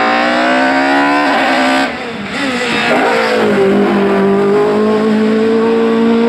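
Racing car engine at high revs, its pitch climbing under hard acceleration. About two seconds in it lifts off briefly and the sound dips, then it pulls again and holds a steady high note.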